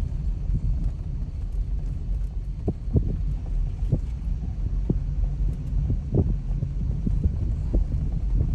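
A vehicle engine running with a steady low hum, with irregular knocks and thumps as it drives over rough ground.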